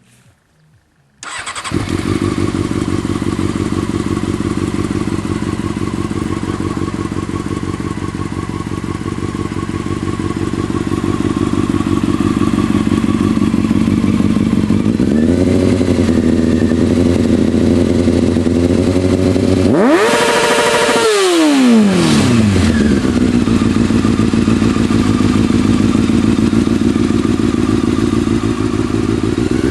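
Honda CBR600F4i's inline-four engine through an ART Pro Series II aftermarket exhaust, starting about a second in and then idling steadily. Past halfway it takes a small blip of the throttle, then a few seconds later a sharper rev that rises and falls back to idle.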